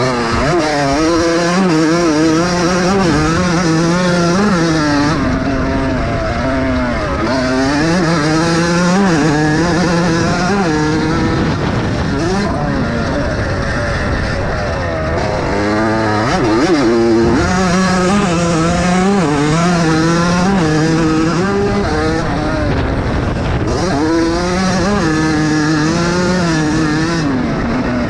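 Several vintage motocross bikes' engines racing, revving up and dropping back over and over as the riders work the throttle and shift gears.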